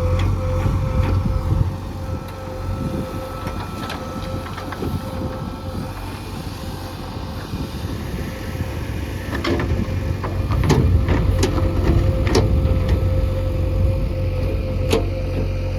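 Heavy diesel earthmoving machinery running steadily, with a low engine hum and a constant higher whine, and a few sharp knocks in the second half.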